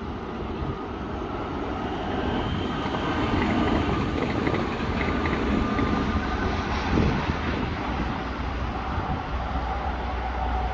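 Red Rhaetian Railway electric train running along metre-gauge track, the rolling noise of wheels on rails growing louder over the first few seconds and then holding steady, with a faint steady whine in the later part.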